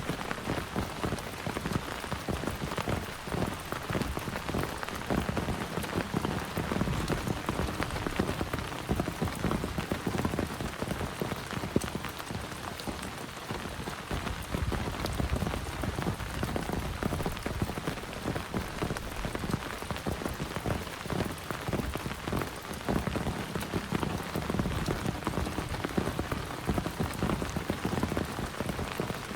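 Heavy rain falling steadily, a dense patter of countless drop impacts with no let-up.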